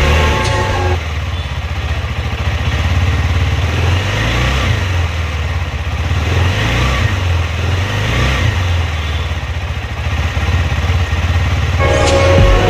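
KTM 390 Adventure's single-cylinder engine running with a steady low rumble that rises and falls a little, between snatches of background music at the start and end.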